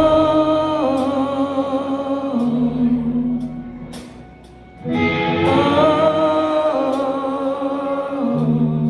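Live rock ballad: a singer holds long notes with vibrato over sustained guitar chords. The music dies down about four seconds in, and a new phrase comes in strongly about a second later.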